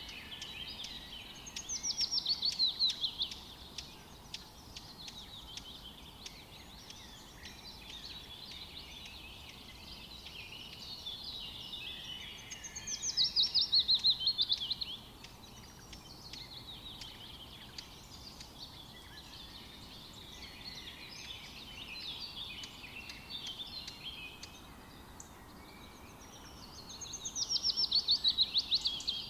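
Forest birdsong: one bird sings a loud, fast descending trill three times, roughly every thirteen seconds, over quieter chirping from other birds.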